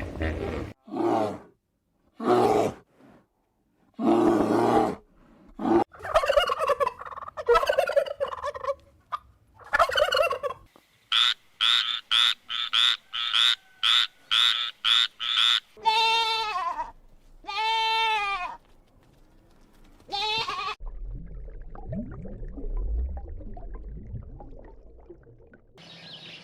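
A series of farm animal calls. First come separate calls, then about eleven seconds in a quick run of short, evenly spaced calls, about two a second, then two long wavering calls. A low rumbling noise with no calls fills the last few seconds.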